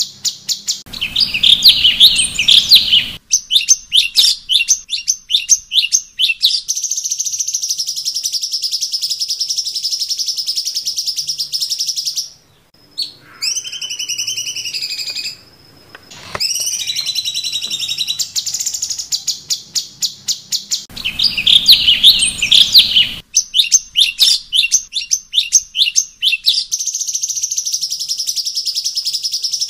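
Cucak cungkok (stripe-throated bulbul) singing long runs of rapid, evenly repeated high notes, broken twice by a harsher chattering phrase and once near the middle by short gliding whistles. This is continuous masteran song used to train caged songbirds.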